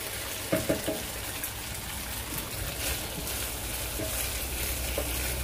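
Beef, onion and garlic sizzling in a non-stick wok while a wooden spatula stirs and knocks against the pan, with a quick run of three knocks about half a second in.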